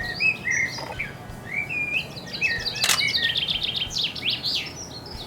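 Garden songbirds singing, many quick varied chirps with a fast trill of repeated notes about three seconds in. A single sharp click about three seconds in, a camera shutter firing.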